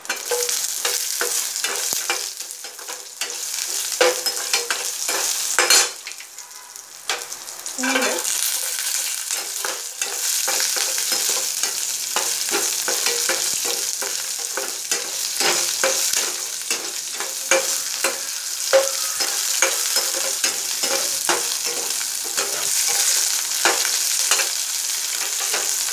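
Onion, garlic, dried red chillies and curry leaves sizzling in hot oil in a metal kadai during the tempering, stirred with a perforated metal ladle that scrapes and clinks against the pan. The sizzle and stirring ease off briefly about six seconds in, then carry on.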